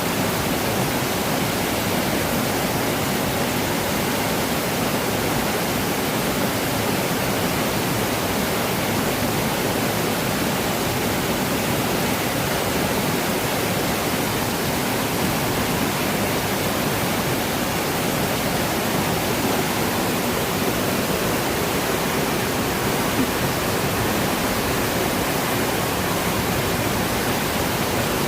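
Waterfall or rushing water: a steady, even rush without any breaks.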